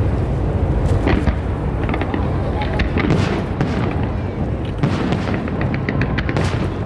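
Fireworks display: shells bursting with booms and crackles in clusters every second or two, over a steady low rumble.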